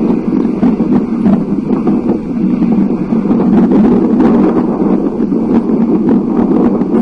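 Loud, steady low rumbling noise of storm wind buffeting the microphone during a thunderstorm.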